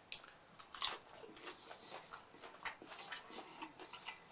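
Close-miked crunching and chewing of a crispy hard-shell mini beef taco, with a sharp crunch a little under a second in and smaller irregular crunches after it.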